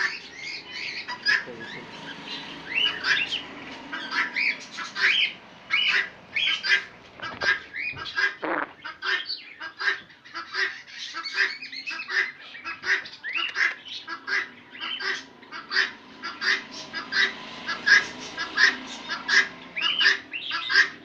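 A flock of caged finches calling together: a dense, continuous stream of short, high chirps and squawks.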